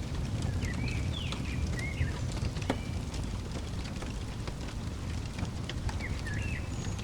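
Wood fire crackling, with scattered sharp pops over a steady low rumble. A bird chirps short, gliding phrases twice, in the first couple of seconds and again near the end.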